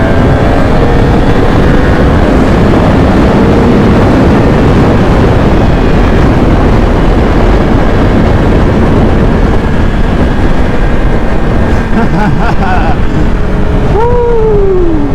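Motorcycle riding at speed: wind rushing over the helmet-mounted microphone, with the engine's drone underneath. Near the end the engine pitch briefly rises and then falls.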